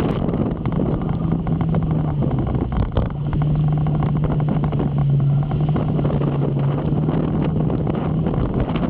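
Motorcycle engine running at a steady cruising speed, its note easing briefly about three seconds in and then holding again, under wind rushing over the microphone and rain spattering on it.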